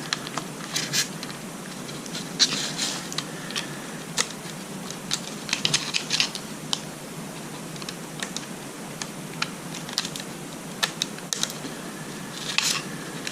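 Small metal parts and a screwdriver clicking and tapping irregularly as new contact points and a condenser are fitted into an engine's distributor, in small clusters of clicks.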